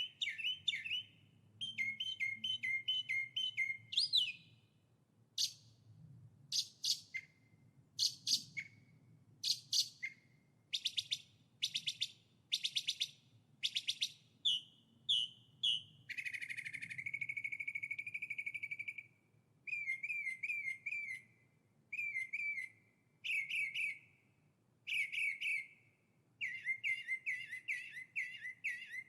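A songbird singing a string of varied phrases with short pauses between them: rapid repeated chirps, fast trills and, about two-thirds of the way through, one long held whistled note.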